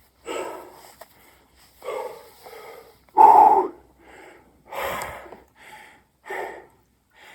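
A man breathing hard while doing burpees: a string of loud, separate exhalations and gasps, about one every second, the loudest a little past three seconds in. A dull low thump sounds about five seconds in.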